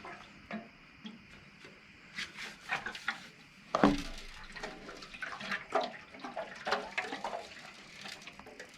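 Vinegar sloshing and gurgling inside a rusty steel fuel tank as the tank is handled and turned over, with scattered knocks and clunks of the metal. The loudest clunk comes about four seconds in.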